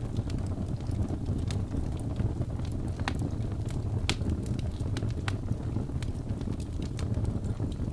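Wood fire burning in a fireplace: a steady low rumble of flames with irregular sharp crackles and pops from the logs, the loudest about three and four seconds in.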